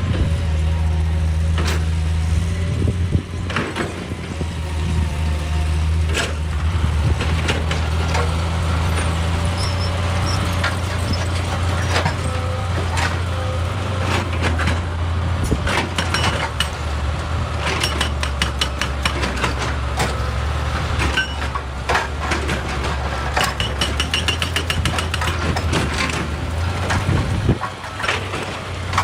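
Excavator engine running steadily while rocks clatter and knock, with many short sharp knocks that come thickest in the second half.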